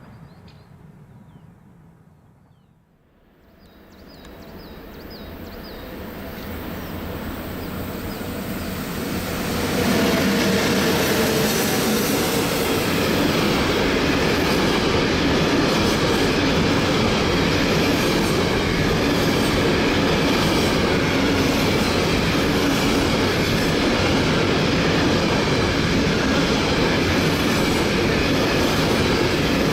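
A train running on the rails, its wheels clattering over the track. The sound dips almost to quiet a few seconds in, then builds steadily over about seven seconds and holds loud and even.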